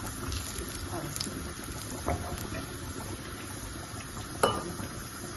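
Garlic cloves and a bay leaf frying in butter in a frying pan: a steady sizzle. A single sharp tap stands out about four and a half seconds in.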